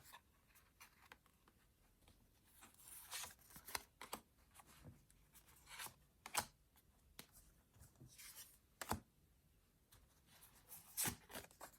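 Tarot cards being shuffled and handled: faint, scattered short rustles and snaps of card stock.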